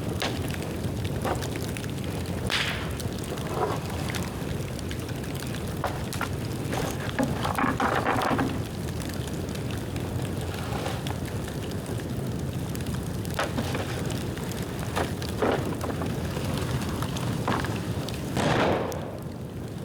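Bonfire of dead bamboo burning: a steady rush of flame with scattered crackles and sharp snaps, louder briefly twice.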